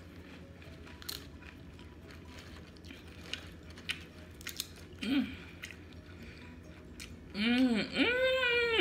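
Quiet chewing, with a few faint crunches and clicks of tortilla chips being picked from the nacho plate. About seven seconds in, a woman's loud wordless vocal exclamation begins, rising and falling in pitch, as she lifts a chip trailing a long string of melted cheese.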